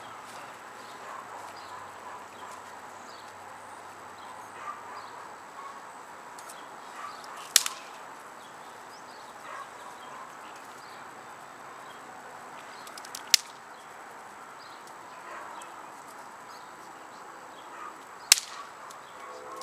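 Yard-wood fire burning with faint crackling, broken by three sharp, loud pops several seconds apart.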